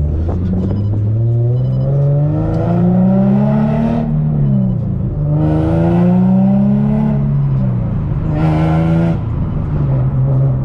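Infiniti G37's 3.7-litre V6 accelerating through the gears of its six-speed manual. The revs climb for about four seconds and drop at an upshift, then climb again and drop at a second shift about seven seconds in.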